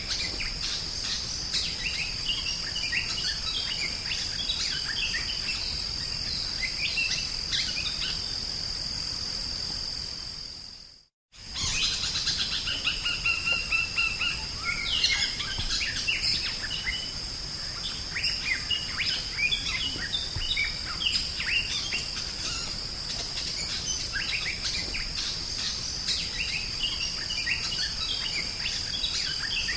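Drongo (sri gunting) singing a busy, varied string of chirps and slurred whistles over a steady high insect buzz. About eleven seconds in, the sound fades out briefly and then starts again abruptly.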